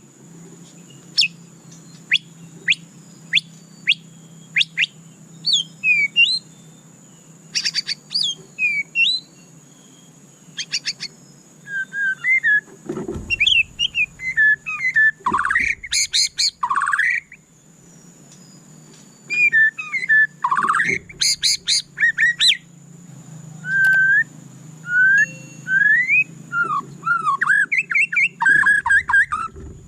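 White-rumped shama singing a varied song: first a string of short sharp whistled notes about one or two a second, then mixed phrases of rising and falling whistles and quick rattling trills, with a brief pause a little past the middle.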